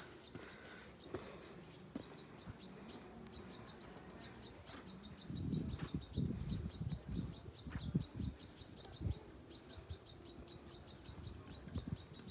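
Insects chirping in a fast, even, high-pitched pulse, with a short rising bird note about four seconds in and low bumps and rustling around the middle.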